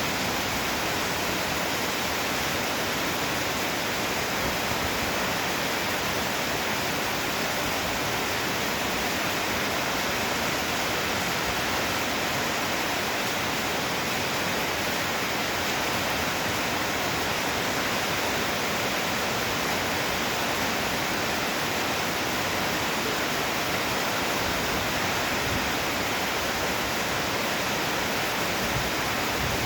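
Heavy rain pouring down steadily, an even hiss of water with no thunder.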